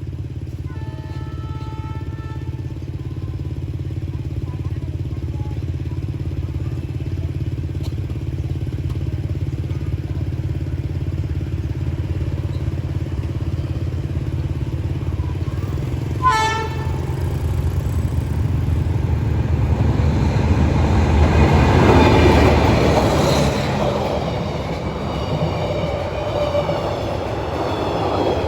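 D19E diesel-electric locomotive running steadily as it approaches with a passenger train, giving a brief sharp horn toot about sixteen seconds in, then growing loudest around twenty-two seconds in as the locomotive passes.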